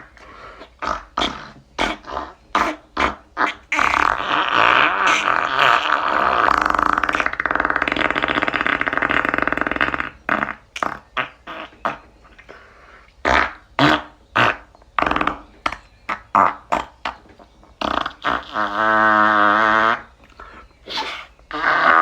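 Mouth-made fart sounds, blown as raspberries through the lips. First a run of short sputters, then a long steady buzz lasting several seconds, then more short sputters, and near the end a pitched one whose pitch wavers.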